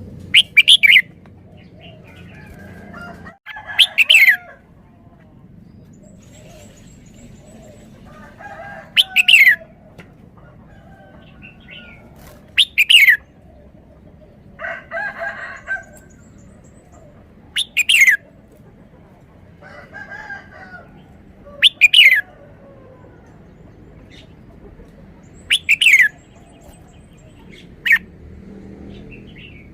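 Red-whiskered bulbul singing its three-syllable song: short, loud, clear phrases about every four seconds, with a few quieter warbling phrases between them.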